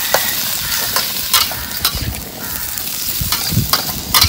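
Chunks of barbecued pork frying in oil in a wok, sizzling steadily, while a metal spatula stirs them and scrapes and knocks against the pan about half a dozen times.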